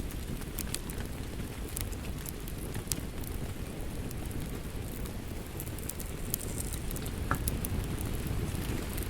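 Steady rain with a crackling wood fire: a continuous low rushing under scattered sharp pops and snaps from the burning logs.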